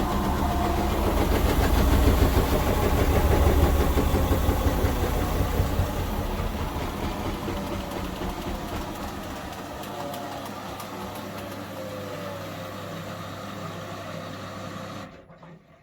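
Indesit 1400-spin washing machine's drum spin winding down at the end of the cycle: the motor's whine falls in pitch and the rumbling fades gradually over a steady low hum. Everything cuts off suddenly near the end as the machine stops.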